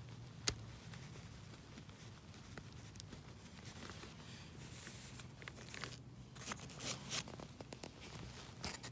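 Mouse glue trap being peeled off a fabric jacket: short sticky tearing and crinkling noises, coming in bunches in the second half, after one sharp click about half a second in.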